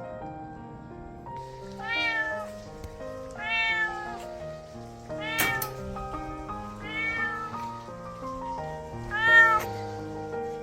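A cat meowing five times at intervals of one to two seconds, each call short and arching in pitch, the last one loudest, over soft background piano music.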